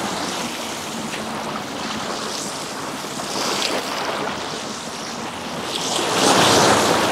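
Sea waves washing onto the shore in a steady rush that swells louder about six seconds in.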